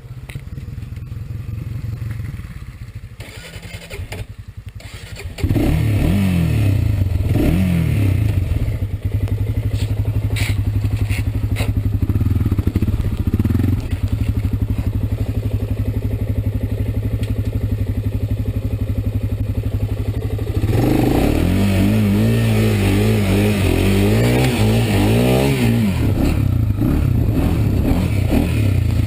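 A Honda ATV's single-cylinder four-stroke engine runs softly for about five seconds, then opens up suddenly and pulls hard and steadily. About two-thirds of the way through, the revs rise and fall over and over as the throttle is worked.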